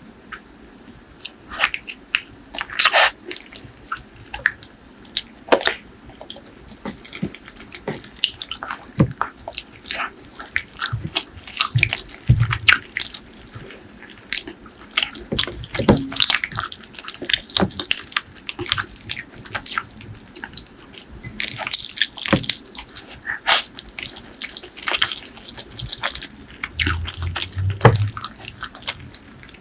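Close-miked eating of spicy pork leg curry with rice: wet mouth sounds, chewing and sharp sticky clicks at irregular intervals.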